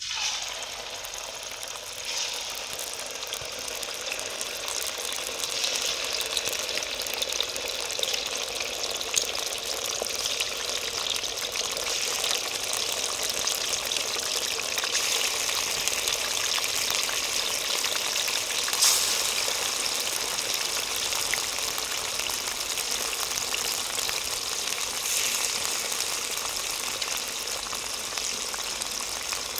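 Food frying in hot oil: a dense, steady sizzle that starts abruptly, with a single louder crackle partway through.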